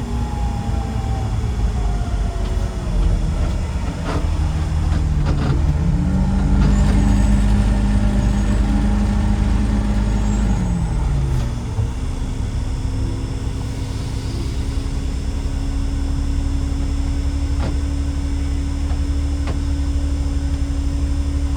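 Garbage truck's diesel engine running on the road, its pitch dropping, then climbing and holding for a few seconds before falling back, then running steady. A few sharp clicks sound early on.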